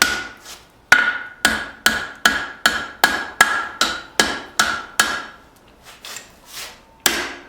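Hand hammer striking hot leaf-spring steel on an anvil, about three blows a second, each with a short metallic ring, while the handle end is bent round into a curl. The blows turn lighter and sparser for the last couple of seconds before a hard strike near the end.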